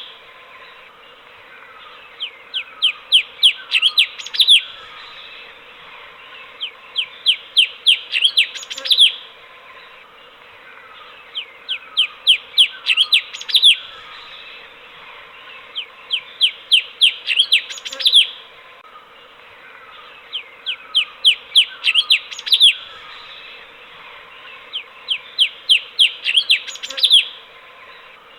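Cucak cungkok bulbul singing: rapid runs of short, sharp repeated notes, about six bursts each lasting a couple of seconds and coming every four to five seconds, each run growing louder to its last notes, with softer lower notes between.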